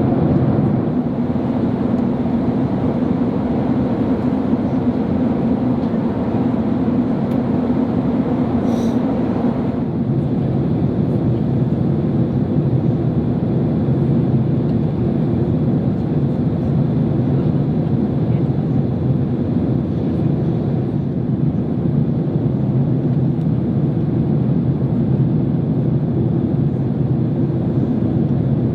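Steady engine and airflow noise inside the cabin of a Boeing 767-300 airliner during the descent toward landing. The higher hiss in it eases a little about ten seconds in.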